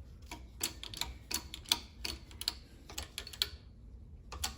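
Shop press pushing a new bearing onto a Nissan M226 heavy-duty axle shaft, giving off sharp, unevenly spaced clicks about three a second, with a short pause near the end.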